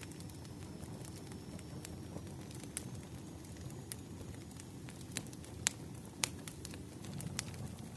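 Wood fire crackling: a steady low rumble of burning logs with scattered sharp pops, two of them louder a little past the middle.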